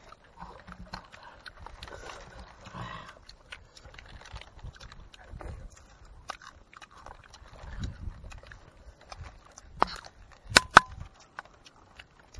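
Close-up eating sounds: chewing and lip-smacking on grilled chicken, with scattered small wet clicks. About ten seconds in comes a short run of sharp, loud clicks.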